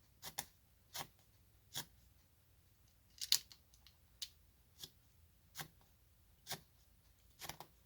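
Light, sharp clicks of a diamond-painting drill pen picking up round resin drills and pressing them onto the adhesive canvas, about a dozen at an uneven pace of roughly one a second.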